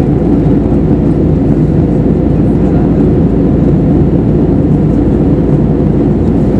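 Steady roar of airliner cabin noise in flight on an Airbus A320neo: the CFM LEAP-1A engines and airflow over the fuselage, a low, even rumble with no changes.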